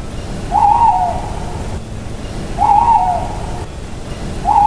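Owl hooting: three short, wavering hoots about two seconds apart, over a steady low background noise.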